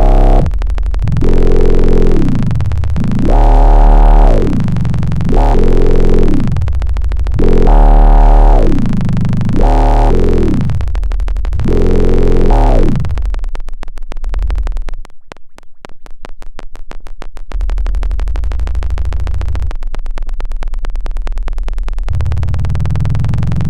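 Arturia Buchla Easel software synthesizer playing a run of pitched notes, each gliding downward, about one every two seconds. About halfway through it changes to a low buzzing drone with a fast pulse.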